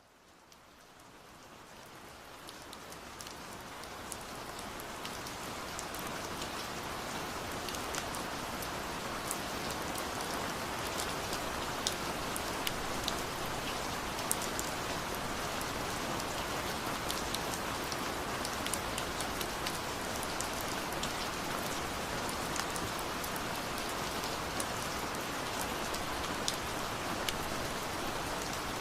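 Steady rain falling, with frequent sharp ticks of single drops over the rush. It fades in from silence over the first few seconds, then holds steady.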